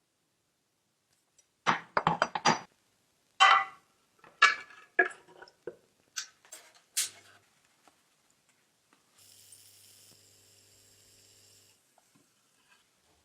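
Several quick clusters of small clinks and knocks, as of small metal parts and tools being handled on a workbench. Later a faint steady hum sounds for a couple of seconds.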